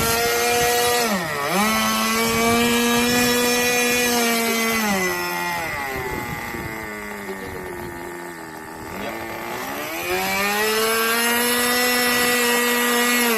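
Small engine of a 1000 mm radio-control model aircraft running at high revs. It dips sharply about a second and a half in, is throttled back to a lower, quieter pitch for several seconds, then rises to full revs again about ten seconds in.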